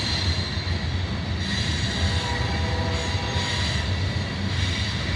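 Loaded coal train rolling past: a steady, even rumble of freight cars on the rails, with a faint, thin high squeal of wheels running over it.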